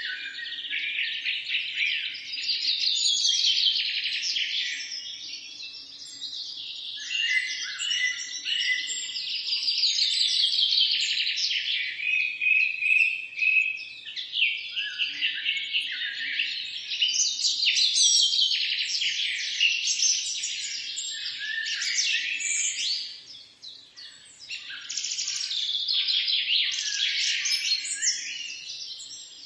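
Birdsong: a long, nearly continuous stream of fast trills and chirps, breaking off briefly about three-quarters of the way through.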